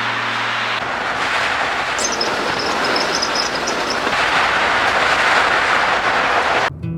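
A train running on rails: steady rolling noise, with a few faint high wheel squeals about two seconds in.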